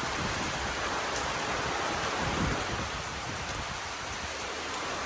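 Heavy rain falling steadily, an even hiss of rain on hard surfaces with a low rumble underneath.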